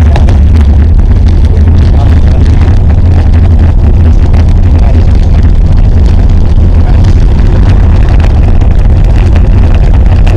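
Wind buffeting the microphone, a loud steady low rumble that stays level throughout.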